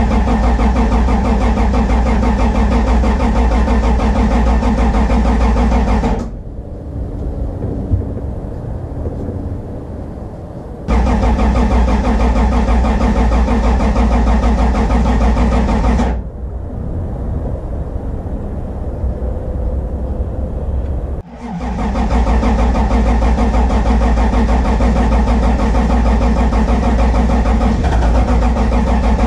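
Toyota Supra's engine being cranked by the starter in three long bursts with pauses between, turning over without firing after sitting unrun for about three years.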